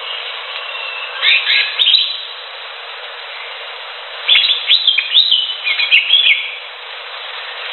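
Cucak hijau (leafbird) singing: two bursts of quick chirps and whistles, the first about a second in and a longer one from about four to six seconds, over a steady hiss.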